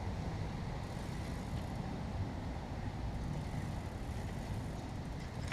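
Honda CBF 125's single-cylinder four-stroke engine idling steadily, run just after an oil change to circulate the fresh 10W40 oil.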